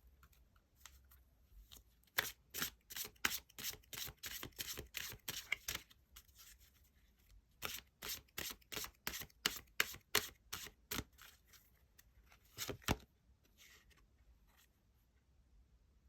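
Tarot cards being shuffled by hand: two runs of quick, crisp card snaps at about four or five a second, then one louder snap near the end.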